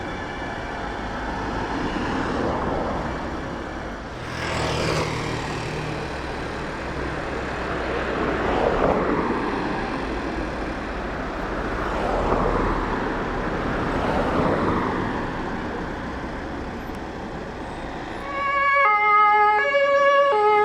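Road vehicles driving past one after another, each swelling and fading. About eighteen seconds in, a German two-tone emergency siren (Martinshorn) starts up loud close by, alternating between two pitches.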